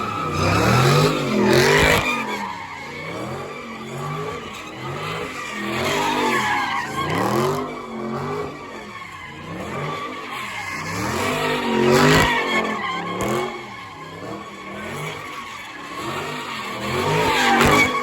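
Car engine revving up and down over and over, with tyres squealing and skidding on the pavement.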